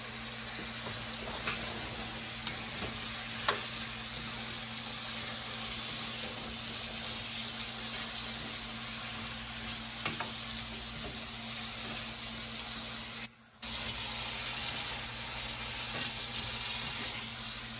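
Diced potatoes frying in a nonstick skillet, a steady sizzle, with a few light clicks of a spatula stirring them in the pan. The sound drops out for a moment about two-thirds of the way through.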